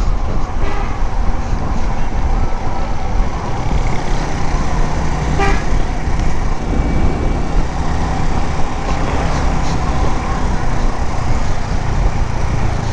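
Suzuki GS 150 motorcycle's single-cylinder engine running on the move, under heavy wind rush on the microphone, with road traffic around it and vehicle horns tooting.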